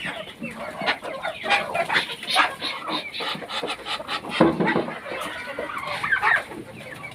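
Domestic chickens clucking, with many short calls overlapping from several birds.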